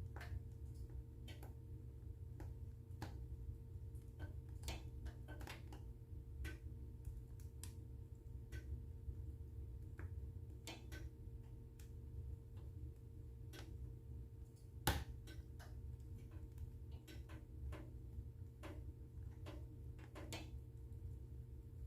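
Wood fire in a fireplace crackling: irregular small pops and snaps, with one louder pop about two-thirds of the way through, over a low steady rumble.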